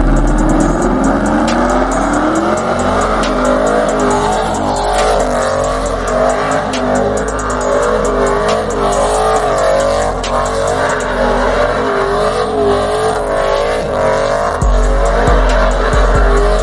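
A car doing a burnout: the engine revs climb over the first few seconds, then the tires squeal with a wavering pitch as the engine holds high revs.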